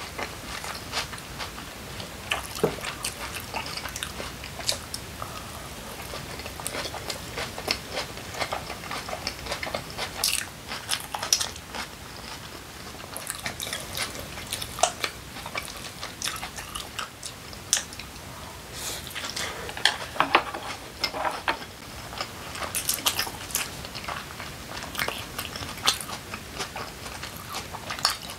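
Close-up eating sounds of a person chewing and biting kimchi pancake: many short wet clicks and crackles from the mouth.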